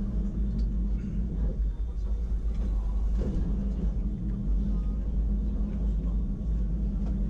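Wengernalp Railway electric rack train running uphill, a steady low rumble heard from inside the carriage.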